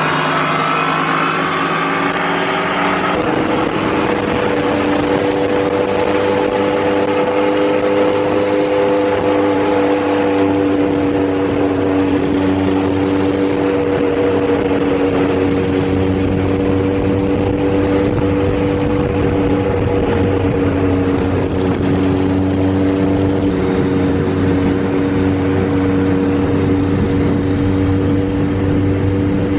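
A large 1970s motorcycle engine running at a steady idle; about three seconds in the pitch drops and settles, then holds even.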